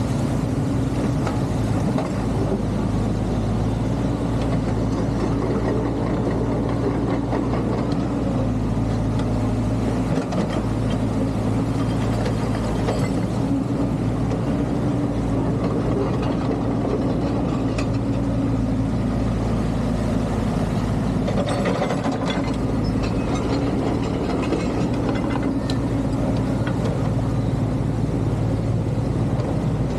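Excavator's diesel engine running steadily at a constant pitch, with a short spell of extra scraping or clattering noise a little past two-thirds of the way through.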